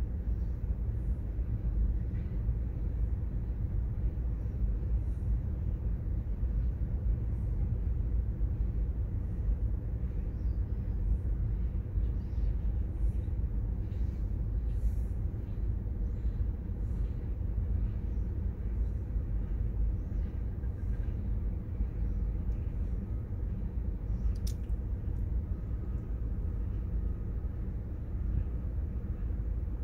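Steady low rumble of a long freight train's cars rolling past on the rails, with faint scattered clicks.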